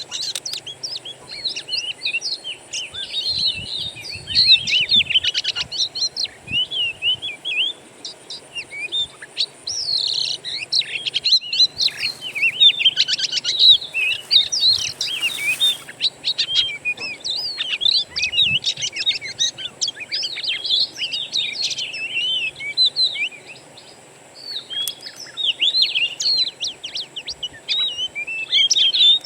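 Wild songbirds singing in a dense, fast run of chirps, whistles and trills, with a short lull a few seconds before the end. This is a lure recording used to set a caged oriental magpie-robin singing.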